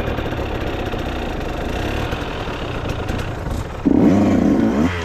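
Dirt bike engines running, with one bike revving up loudly about four seconds in.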